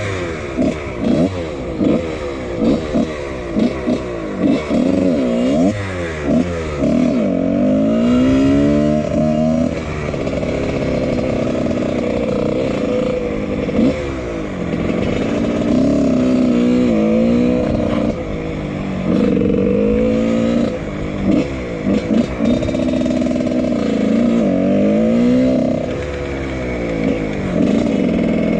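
1999 Husqvarna CR125 two-stroke dirt bike being ridden hard. Its engine revs up and down in quick, choppy blips for the first several seconds, then runs in longer pulls that rise and fall with the throttle and gear changes.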